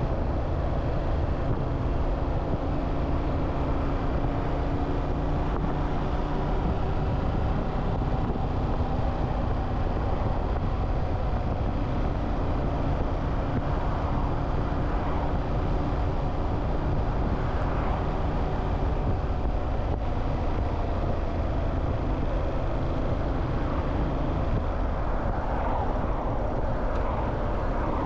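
Motorcycle riding, heard from the rider's position: a steady engine note under heavy wind and road noise, with tones sliding down in pitch near the end.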